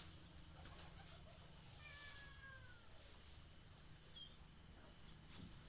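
Faint outdoor ambience with a steady high-pitched insect drone, and a short descending animal call about two seconds in, followed by a small chirp a couple of seconds later.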